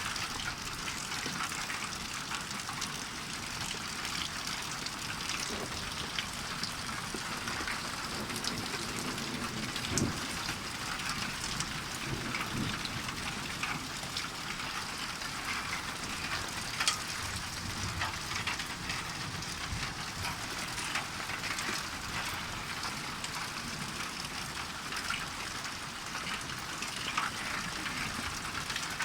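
Hail and rain falling hard: a steady dense hiss scattered with sharp ticks of hailstones striking, a few louder knocks standing out.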